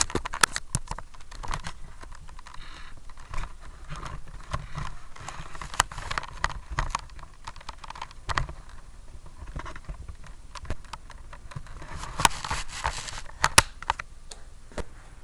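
Irregular clicks, taps and rustling, with a denser patch of rustling and clicks about twelve seconds in.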